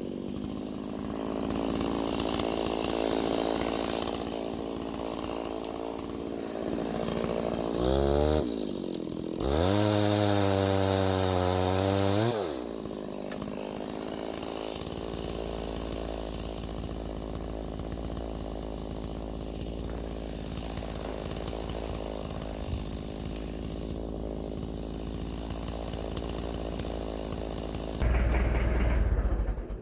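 Gas chainsaw running: it revs up briefly about eight seconds in, then holds a high rev for about three seconds. It drops back to a steady lower run, gives a short loud burst near the end and then cuts off.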